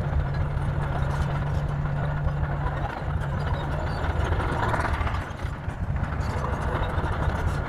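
Heavy diesel engine of earthmoving machinery running steadily with a low, fast-pulsing drone, dipping briefly about two-thirds of the way through.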